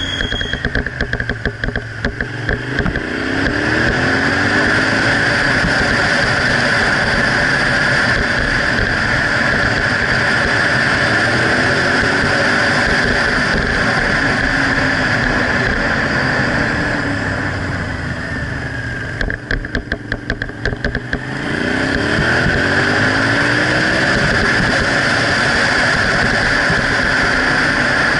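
Suzuki SV650 V-twin motorcycle engine under way, heard from the rider's position over a steady rush of wind and road noise. Twice the revs drop, near the start and about two-thirds through, and the engine pulses slowly as it slows for a bend. Then it pulls away again, rising in pitch through the gears.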